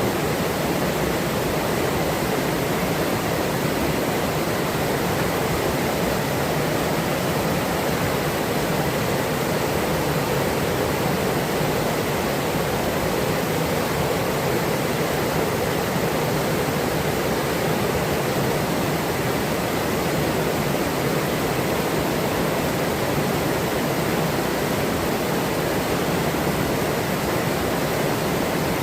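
Forest river flowing over rocks: a steady, even rush of water with no breaks.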